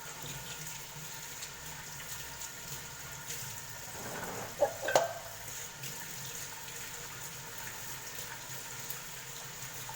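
Kitchen cooking sounds: a steady low hiss with two sharp, ringing clinks of a utensil against cookware about halfway through.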